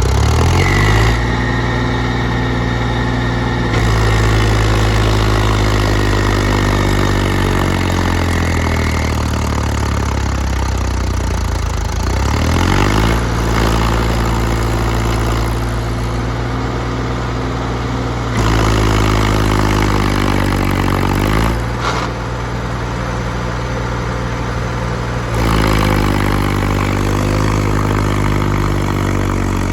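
Heavy diesel machinery running throughout, its engine speed rising and falling several times as it works. A thin high whine runs over the first several seconds.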